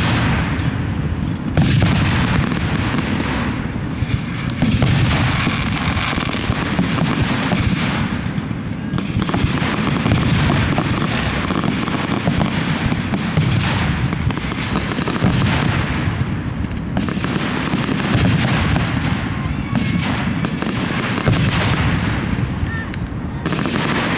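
Aerial fireworks going off in a rapid, continuous barrage: overlapping booms and sharp bangs with crackle, with no pause between bursts.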